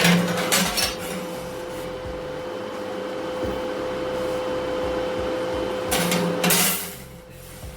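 A shop tool cutting sheet expanded metal with a steady hissing rush and a constant hum. Harsh bursts come at the start and again about six seconds in, and the noise drops away near the end.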